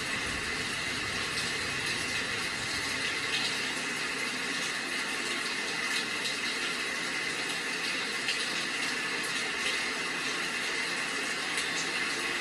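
Steady rain: an even hiss with occasional faint drop ticks.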